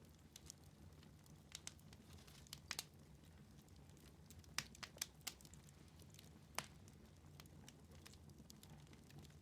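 Wood fire burning in a fireplace, crackling with scattered sharp pops, several in quick succession about halfway through and one more near the end, over a faint low hum.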